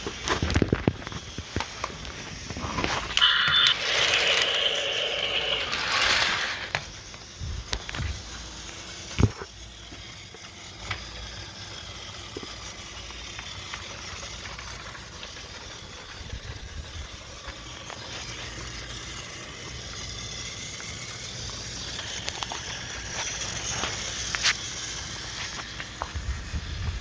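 Battery-powered Fisher-Price GeoTrax toy train engine running on plastic track, rattling and scraping with scattered clicks. A short, loud pitched sound with several tones comes about three seconds in and lasts about three seconds.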